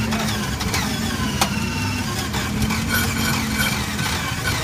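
Ferrari 330 P3/4's mechanically fuel-injected V12 running at idle just after being started. A few sharp cracks sound over the steady engine note.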